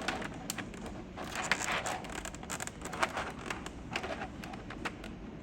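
Scattered light clicks, taps and brief rustles of plastic being handled as a keycap set is unpacked.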